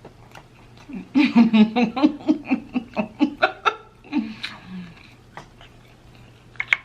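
A woman laughing: a run of quick, even "ha-ha" pulses lasting about three seconds, starting about a second in and trailing off. A couple of short clicks near the end.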